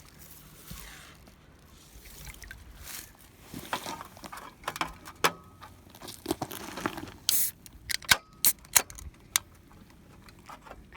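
Dry firewood snapping and cracking in a quick, irregular series of sharp snaps, the loudest few around eight seconds in, with a short rasping burst just before them.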